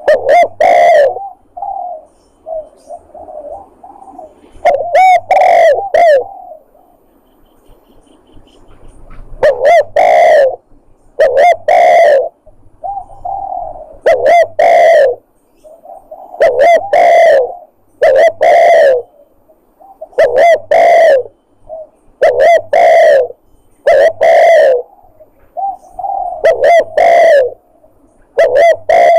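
Spotted dove (tekukur) cooing, a lure call: repeated loud coo phrases in runs of two or three, with short pauses between them.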